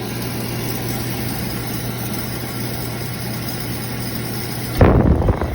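Beckett oil burner running after its motor was started by spinning the blower wheel by hand: a steady rushing noise with an electrical hum. The motor will not start on its own, which the owner puts down to a bad start capacitor. A louder, short rumbling burst comes near the end.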